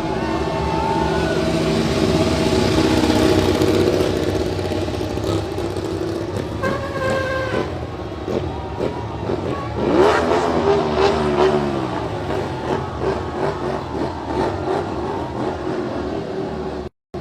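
Motorcycle engines running and revving. About ten seconds in, one engine revs sharply up in pitch and then falls back.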